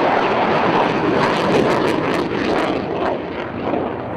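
Two F-16 fighter jets flying a low, slow pass: a dense, steady jet rush that fades slightly near the end.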